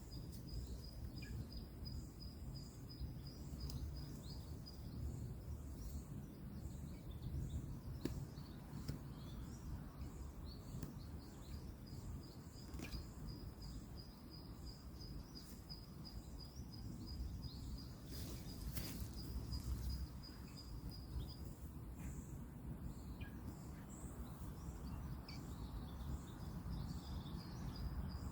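Outdoor woodland ambience: a steady low rumble of distant road traffic under a thin, high, pulsing trill that runs with short breaks, and a few faint sharp clicks.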